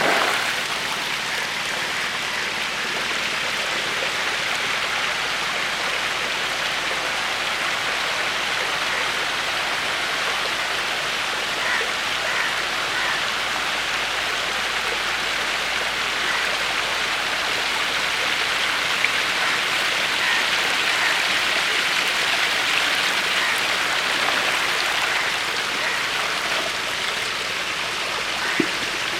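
Steady splashing, rushing water noise, like rain or a stream, in a fish tank.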